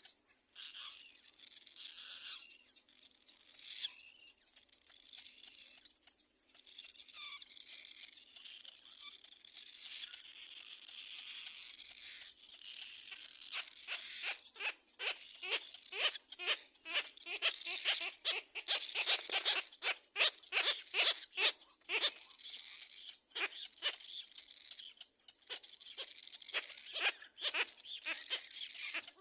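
Little black cormorant chick calling from the nest. The first half is faint, then from about halfway it gives a fast run of short, sharp cries, about three a second, growing louder.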